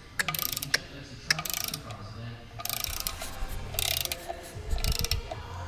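Ratcheting torque wrench clicking in several short runs as the clutch pressure-plate bolts are tightened to 25 Nm in a star pattern.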